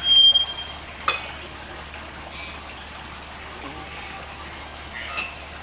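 A three-wattled bellbird's whistle: one clear, steady note held for under a second near the start, then a sharp click-like note about a second in, over a steady hiss of background ambience.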